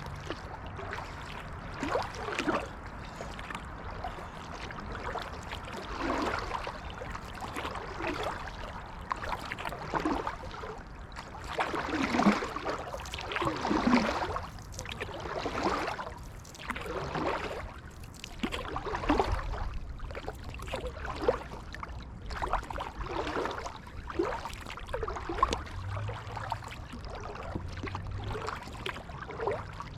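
Kayak paddle blades dipping and pulling through the water of a creek, a splashing swish about once a second, with water trickling off the blades.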